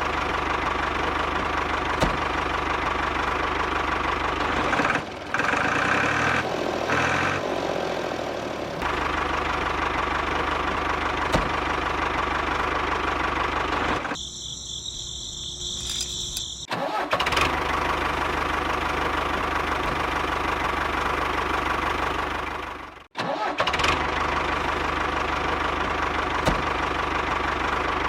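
Mini diesel engine of a DIY model tractor running steadily, with a low hum and a light regular ticking. The sound changes abruptly a few times where the footage is cut, with a brief different-sounding stretch around the middle and a sudden gap near the end.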